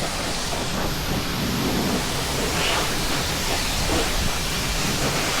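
Pressure washer spraying water onto a car, a loud steady hiss.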